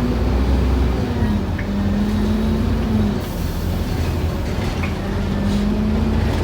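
Scania N230UD OmniCity double-decker bus's diesel engine and drivetrain heard from on board while under way: a steady rumble with a hum whose pitch drops about a second in, fades out around three seconds in, and comes back near the end as the bus changes speed.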